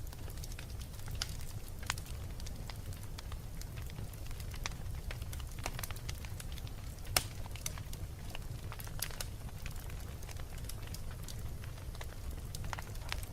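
Wood fire burning in a fireplace: irregular crackles and pops over a steady low rumble, with one sharper pop about seven seconds in.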